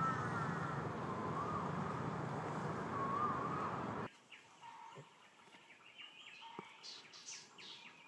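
Bird calls over a steady background hiss: a wavy whistled call repeats about every one and a half seconds. About halfway through the sound cuts abruptly to a quieter background with short, high chirps.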